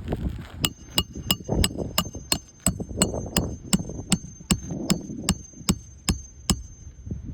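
Steady hammer blows on metal during an asphalt shingle repair, about three strikes a second, each with a short metallic ring, stopping shortly before the end.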